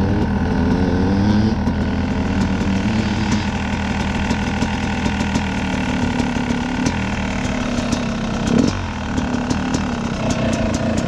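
Dirt bike engine running as the bike is ridden, its note wavering and shifting with the throttle, with a brief change in sound about three-quarters of the way through and sharp ticks in the second half.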